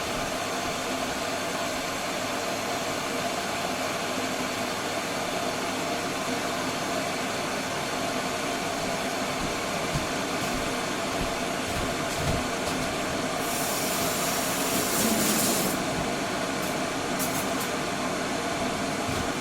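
Glass electric kettle heating water: a steady rushing hiss and rumble. About two-thirds of the way through, a louder high hiss swells for a couple of seconds.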